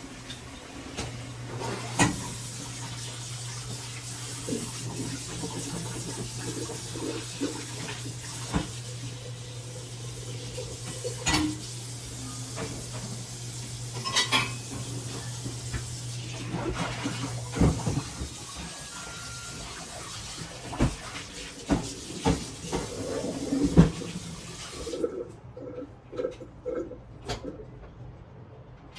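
Kitchen tap running into a sink while dishes and utensils clink against each other; the water is turned off about 25 seconds in, followed by a few more clinks and knocks.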